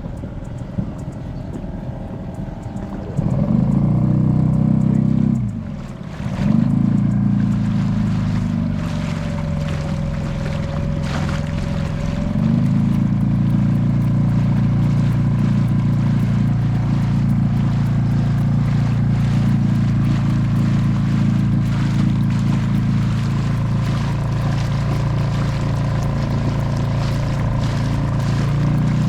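Boat engine running steadily under way; about five seconds in the revs drop and the pitch falls, then it picks up again and settles into a louder, steady run from about twelve seconds in.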